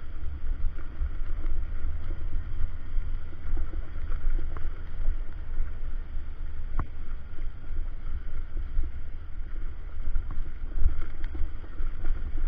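Wind buffeting the microphone on a moving motorcycle: a steady, fluctuating low rumble, with a single sharp click about seven seconds in.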